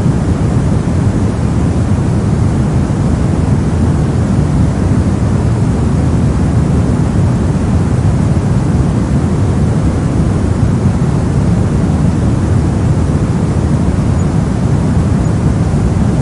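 Brown noise: a steady, unchanging hiss that is deep and rumbling, strongest in the low end and fading toward the highs.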